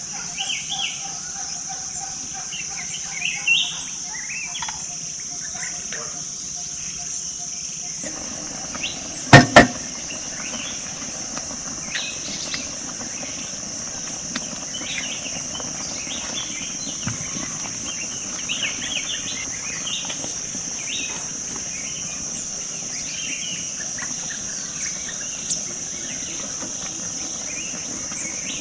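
Forest ambience: a steady high-pitched insect drone with scattered bird chirps. Two sharp knocks in quick succession about nine seconds in are the loudest sounds.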